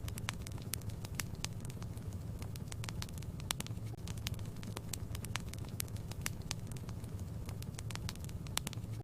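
Wood fire burning in a fireplace: frequent irregular sharp crackles and pops over a low steady rumble.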